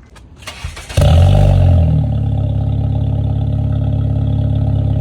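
Honda Civic engine cranking briefly and catching about a second in with a short flare of revs, then settling into a steady idle. It is heard through a Spec D aftermarket exhaust with its silencer removed.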